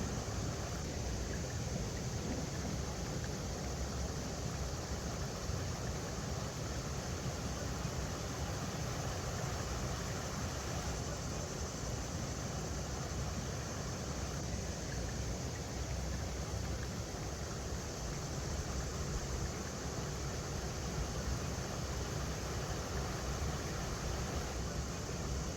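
River water running over rocks: a steady, unbroken rushing with a strong low rumble.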